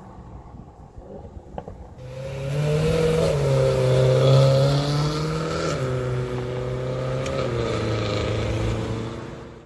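Sports car engine running loudly, coming in about two seconds in. Its note holds fairly steady, steps down in pitch three times, and fades away near the end.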